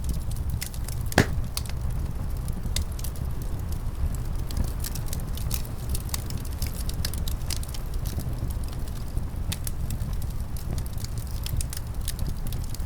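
Wood fire crackling, with many small snaps and one loud pop about a second in, over a steady low rumble of winter wind.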